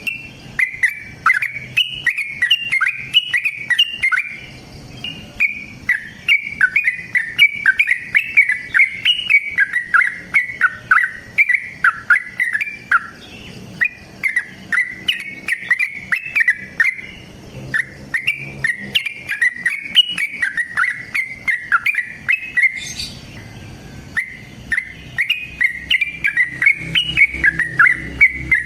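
Yellow-vented bulbul song: long, rapid runs of bubbly chattering notes in phrases of a few seconds, with short pauses between them.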